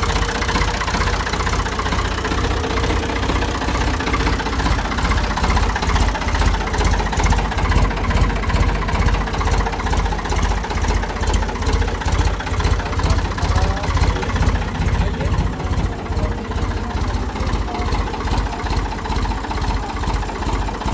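Ford 4610 tractor engine running at a steady idle, with an even pulsing beat.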